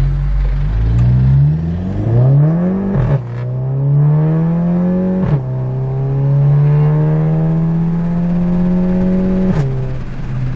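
Volkswagen Golf 7 GTI's turbocharged four-cylinder engine pulling hard under full acceleration, heard from inside the cabin. The revs climb steadily, then fall sharply at each of three upshifts, and each shift is marked by a short crack.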